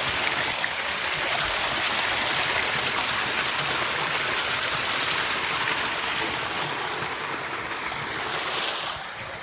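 Strong wind blowing across a phone's microphone: a steady rushing noise that eases off near the end.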